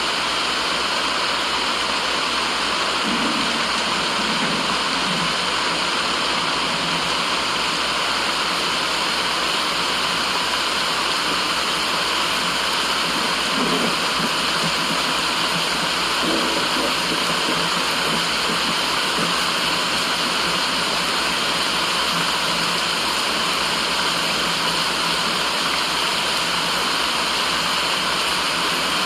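Steady rushing white noise like running water, unchanging, with a few faint low murmurs beneath it.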